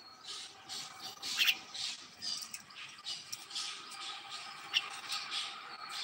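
Caged pet birds squawking: short, high, harsh calls repeated about twice a second.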